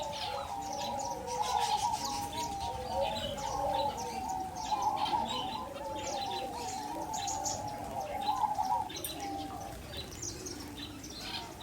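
Many captive birds chirping and calling at once: dense overlapping high chirps above a continuous, wavering lower calling.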